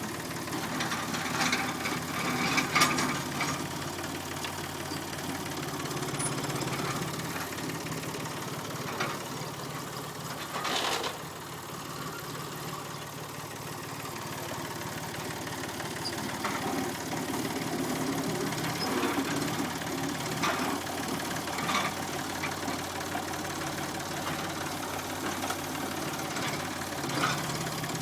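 Massey Ferguson 245 tractor engine running steadily, with a few short, sharp clanks now and then.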